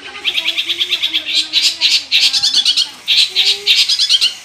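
Long-tailed shrike (cendet) singing a rapid chattering song: several bursts of fast, high repeated notes separated by brief pauses.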